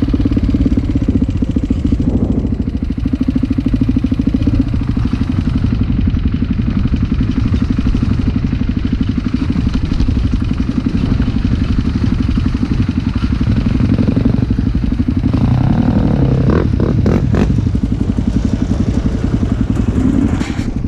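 Motocross motorcycle engine running at a fairly steady pace, with a few sharp clicks or knocks about three quarters of the way through.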